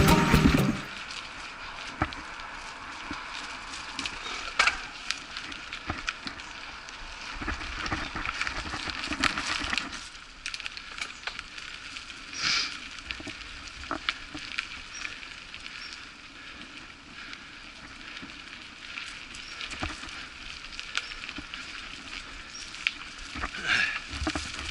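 Mountain bike riding a dirt trail: tyre crunch and patter, with scattered sharp clicks and rattles.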